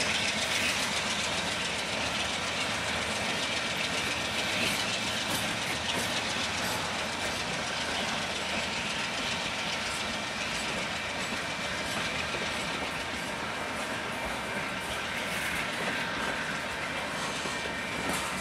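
Freight train boxcars rolling slowly past close by, their steel wheels clicking over the rail joints in a steady running noise, with a few sharper clacks near the end.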